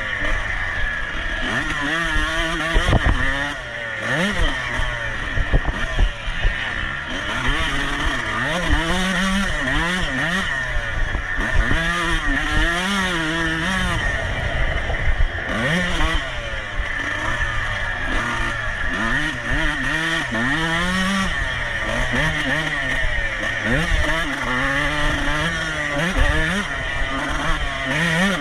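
Dirt bike engine being ridden hard, revving up and dropping back over and over, its pitch rising and falling every second or two.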